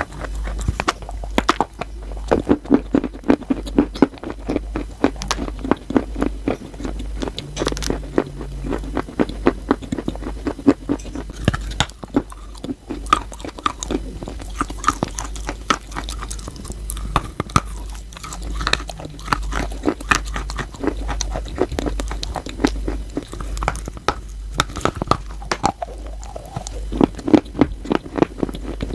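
Close-miked biting and chewing of wet chalk: a dense, unbroken run of sharp crunches.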